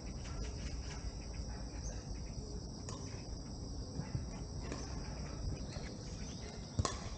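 Steady high-pitched insect chorus, with low rumbling noise underneath and a single sharp knock near the end.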